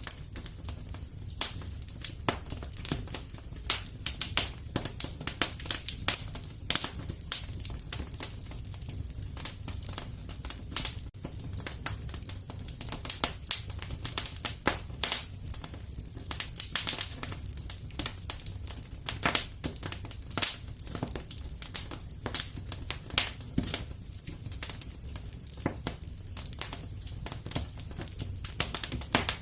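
Wood fire crackling and popping in a fireplace: a steady stream of irregular sharp snaps over a low, steady rumble of the flames.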